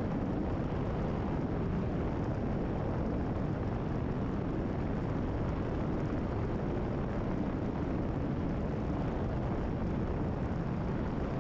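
Cessna 172RG's four-cylinder Lycoming engine and constant-speed propeller droning steadily in climb, heard inside the cabin, with the power set back to about 25 inches of manifold pressure for the climb.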